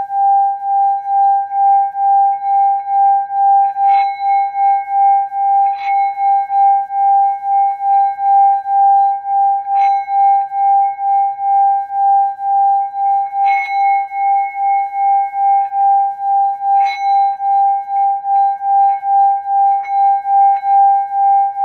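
Singing bowl ringing a steady tone that pulses in loudness about three times a second. A few light strikes on it briefly bring out higher overtones.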